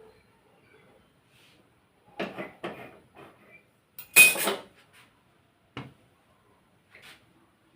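Metal pots and utensils clattering as they are handled, with a few separate knocks and one louder clank with a brief metallic ring about four seconds in.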